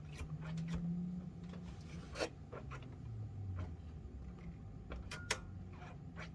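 Small clicks and rubbing from a plastic 1/10 scale RC crawler being handled and its suspension worked, with two sharper clicks about two and five seconds in.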